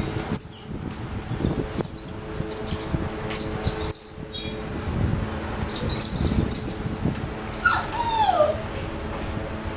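Five-week-old puppies playing and scuffling, with scattered clicks and scratches, and one puppy giving a short whine that falls in pitch near the end.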